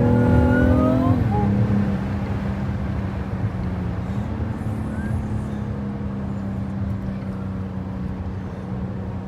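A 2021 BMW X6's turbocharged inline-six engine pulling away in sport mode. Its pitch and loudness drop about a second in, then it runs steadily over road rumble.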